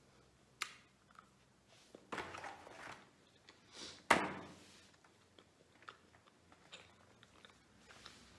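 A person chewing and biting small chocolate balls close to the microphone, mouth sounds with scattered clicks. There is a louder cluster of chewing about two seconds in and the loudest, sharpest bite sound about four seconds in.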